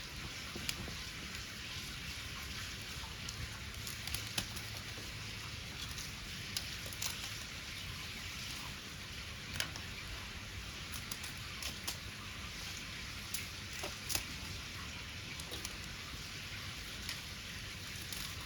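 Wood bonfire crackling: irregular sharp pops and snaps over a steady hiss.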